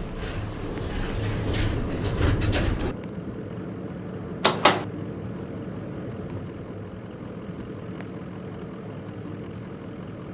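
Enterprise passenger lift: about three seconds of rumbling as the doors slide shut, which stops suddenly, then a quick double clunk. After that comes the steady low hum of the car travelling down.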